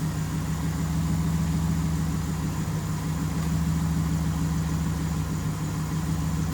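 An engine idling steadily, an even low hum that holds without change.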